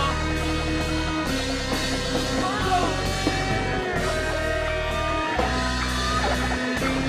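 Rock band playing an instrumental passage, with guitar over drums and a bass line that shifts to a new held note every second or so.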